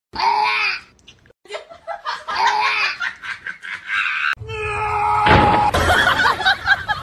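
A person laughing in three short bouts, then a louder, rougher stretch of voices from a little past halfway.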